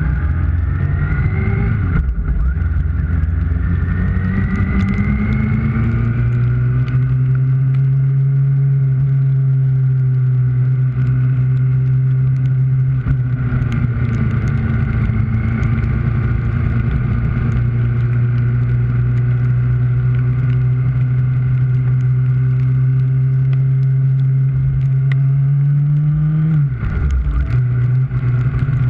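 Kawasaki ZX-6R's inline-four engine accelerating, its pitch rising, with a gear change about two seconds in and another climb. It then holds a steady pitch at cruising speed, with a brief drop in revs near the end.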